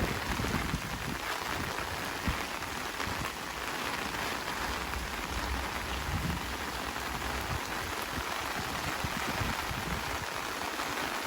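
Heavy rain falling steadily, a dense even hiss, with a few soft low thumps in the first half.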